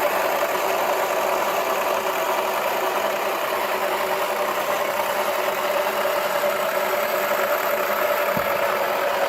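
Toy washing machine's small electric motor running steadily with an even hum. There is one brief low thump about eight seconds in.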